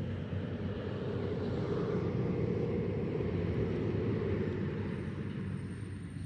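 A passing vehicle rumbling, growing louder toward the middle and then fading away.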